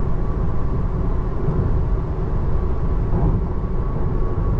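Steady road and tyre noise at freeway speed, heard from inside the cabin of a 2024 Tesla Model 3 Long Range electric car on rain-wet pavement, with a faint steady tone.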